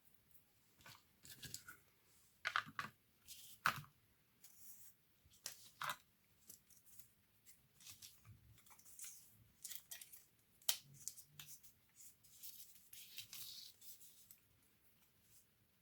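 Quiet, irregular clicks, taps and short scrapes of small plastic and metal laptop parts being handled during disassembly, with a few sharper clicks standing out.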